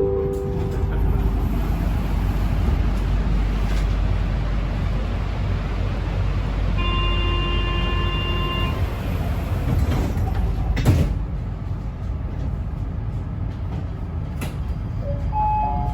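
Athens Metro train running between stations, heard from inside the carriage: a steady low rumble of wheels on rails. A steady high tone sounds for about two seconds midway, and there is a single clunk a little later.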